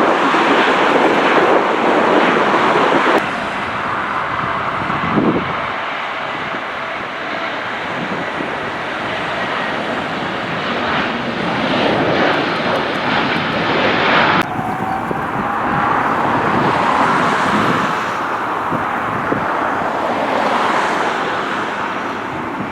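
Wide-body jet airliner engines at close range: a loud, steady rushing noise with a faint engine whine that slowly glides in pitch. The sound shifts abruptly twice, about three seconds in and again about halfway through.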